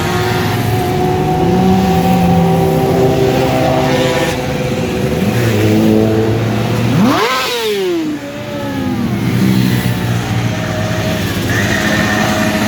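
Several motorcycle engines running together at once. About seven seconds in, one revs hard, its pitch climbing steeply and then falling away.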